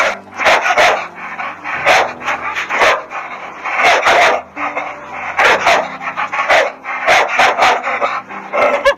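Dogs barking and yipping: short sharp barks in quick clusters, coming again every second or so.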